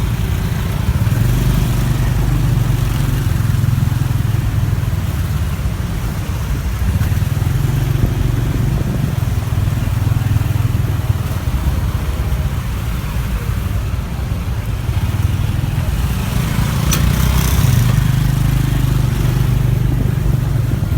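Motorbike engine running through city traffic, its low hum swelling and easing as the bike speeds up and slows. A brief sharper noise comes near the end.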